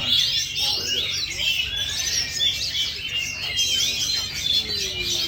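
Several songbirds singing at once, a dense, continuous mix of overlapping chirps, whistles and trills, among them an oriental magpie-robin (kacer).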